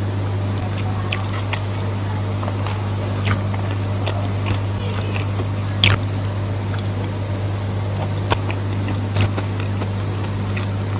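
Close-up mouth sounds of a person eating rice with sweet soy sauce: chewing, with scattered short sharp clicks and smacks, the loudest about six and nine seconds in. A steady low hum runs underneath.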